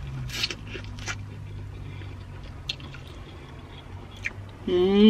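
A person chewing a bite of corn on the cob: wet mouth sounds with a few short, crisp clicks, over a steady low hum in the car. A voice starts near the end.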